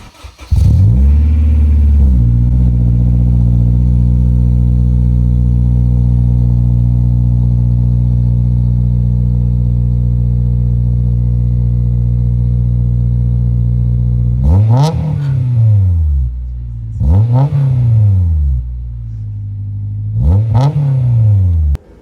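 Honda S2000's four-cylinder engine cold-starting through a Skunk2 Mega Power exhaust: it catches with a quick flare, then holds a steady, loud fast idle. It is then blipped three times, each rev rising and falling in about a second, before the sound cuts off near the end.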